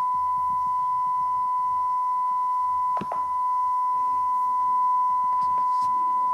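A continuous, steady electronic beep tone held at one pitch, broken only by a short click about three seconds in.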